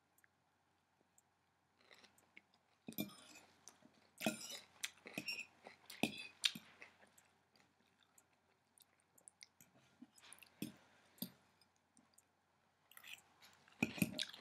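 Close-up chewing of raw kale salad: irregular crunching mouthfuls with pauses between them, starting about two seconds in.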